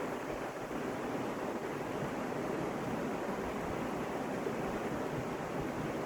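Creek water rushing over rocks, a steady, even rush with no let-up.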